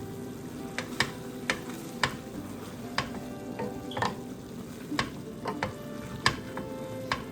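Chicken sizzling in a cooking pot while a utensil stirs it, clicking against the pot about once a second.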